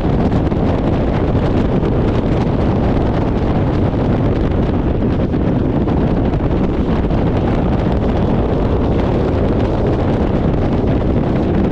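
Steady, loud wind rushing and buffeting over the microphone of a motorcycle riding at speed, with road and engine noise buried beneath it.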